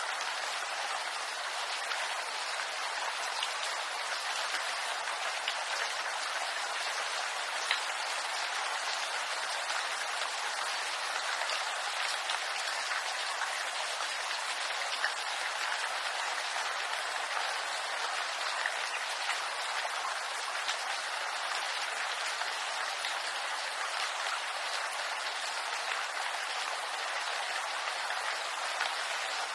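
Steady rain falling on bamboo leaves: an even hiss of rain with scattered single drops ticking through it.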